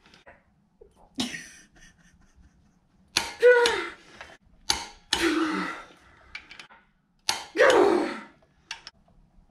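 A person's loud wordless vocal outbursts, grunts that fall in pitch, four times, some led by a sharp smack.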